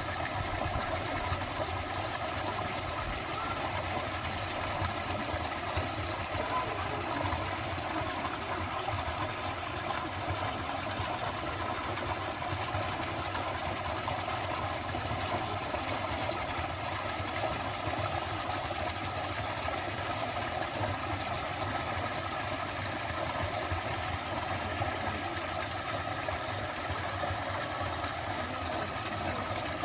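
Dense chorus of frogs calling steadily, many rapid trills overlapping into one continuous sound over a steady background hiss.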